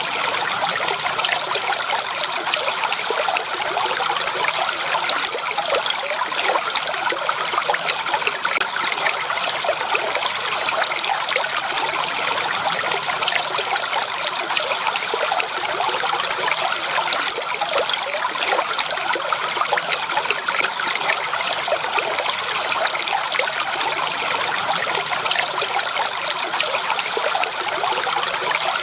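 Water trickling and splashing steadily over stones in a small stream, a continuous bubbling babble without pause.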